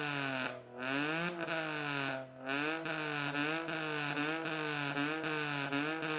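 Exhaust note of a Daihatsu Move LA100's small three-cylinder engine through a homemade dual-pipe exhaust with a titanium tail, held above idle with a steady drone whose pitch wavers regularly. The throttle eases off briefly twice in the first few seconds before the revs pick back up.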